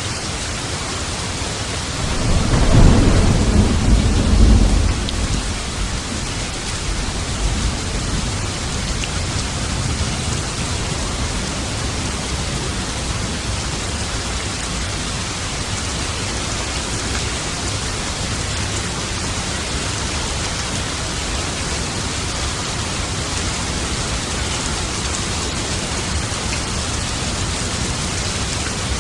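Steady heavy rain with a roll of thunder that swells about two seconds in, rumbles for a few seconds and fades, leaving the rain to run on evenly.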